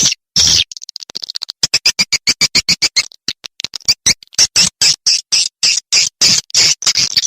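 Recorded swiftlet call used as a nest-house lure: a rapid train of short, sharp chirping clicks, several a second, after a brief buzzy chirp at the start.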